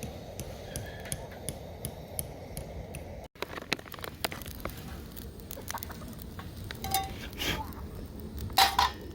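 Light clicks and clatter of metal cookware and utensils being handled while campfire cooking, with a couple of loud, short ringing clinks near the end.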